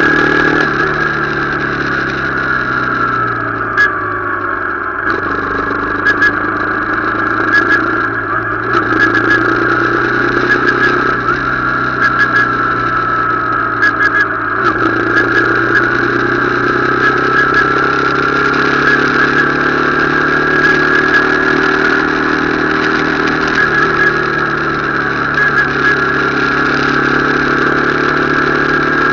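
Motorcycle engine running while riding, its pitch dropping then climbing again twice, first around the start and again about halfway through, as the bike slows and picks up speed.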